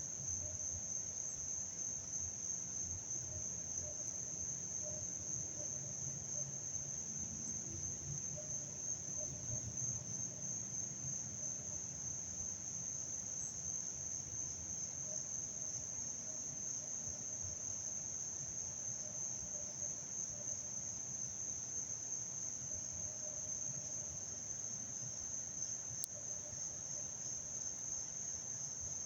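Steady chorus of insects, a continuous high-pitched trill that never breaks, with a faint low rumble beneath.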